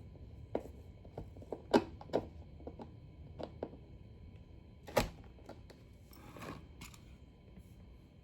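Knife sharpener parts clicking and knocking together as it is handled and reassembled: a run of irregular sharp clicks, the loudest nearly two seconds in and again about five seconds in, with a brief rustle about six seconds in.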